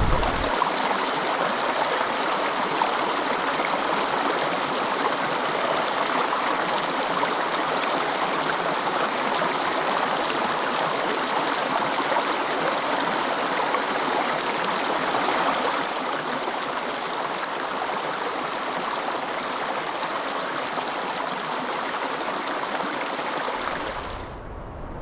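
Steady rushing water, like a stream, with an even rush that steps down slightly in level about two-thirds of the way through.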